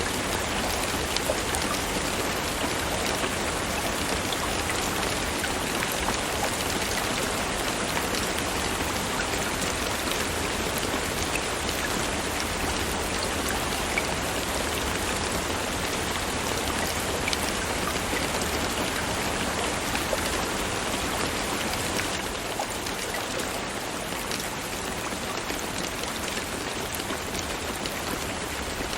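Steady rain falling: an even hiss with scattered individual drop ticks. It gets a little quieter about three-quarters of the way through.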